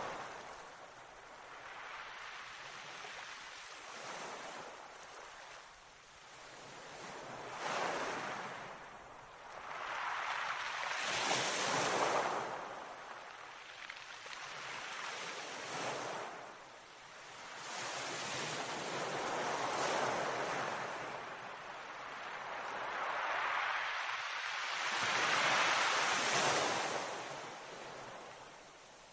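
Sea waves breaking and washing up the shore, each surge swelling and falling away every three to four seconds.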